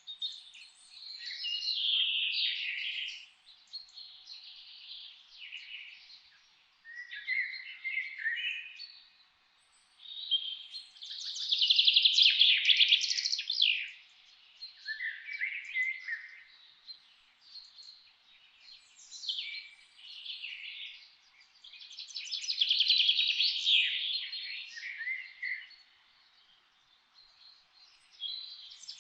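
Songbirds singing: a series of warbling, trilled song phrases a couple of seconds long, repeating every few seconds with short gaps between, the loudest about twelve and twenty-three seconds in.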